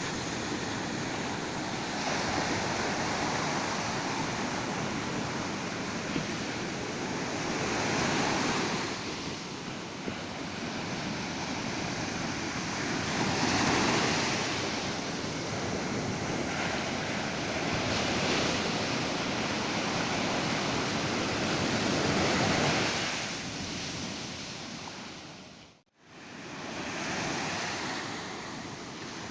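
Ocean surf washing onto a beach, a steady rush of waves that swells every few seconds. The sound briefly drops out and comes back near the end.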